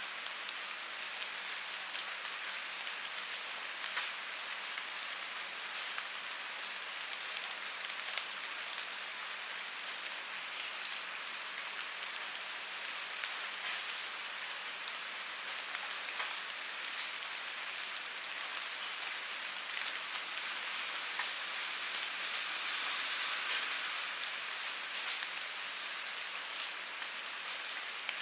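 Steady rain falling: a dense, even hiss with single drops ticking sharply now and then, swelling slightly about three-quarters of the way through.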